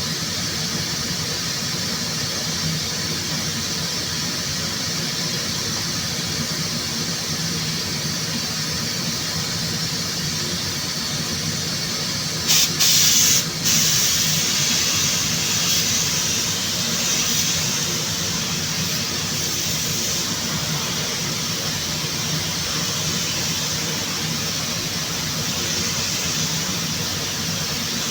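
Compressed-air paint spray gun hissing steadily as clear coat is sprayed onto the car body. About twelve seconds in come two short, louder blasts of air, then a brighter hiss that slowly fades.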